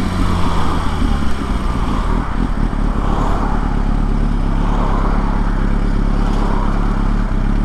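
Kawasaki ZX-6R's inline-four engine running at a steady pitch while riding, under heavy wind rush on the microphone; after about a second and a half the wind noise mostly covers the engine note.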